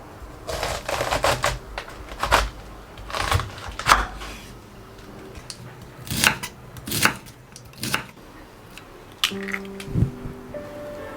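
Kitchen food-preparation sounds: irregular clicks and short clatters of utensils or ingredients being handled, in small groups. Soft musical notes come in near the end.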